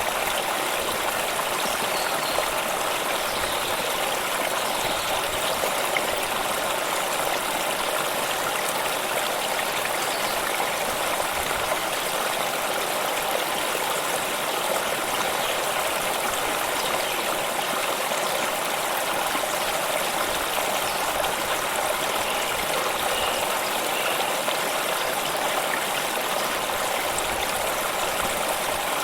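Water stream running over stones: a steady rush with an even babble throughout.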